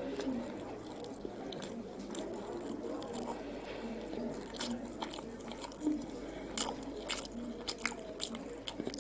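Chewing galash, flaky Egyptian phyllo pastry with a cream filling: moist mouth sounds with many sharp crackles from the crisp pastry layers, coming more often in the second half.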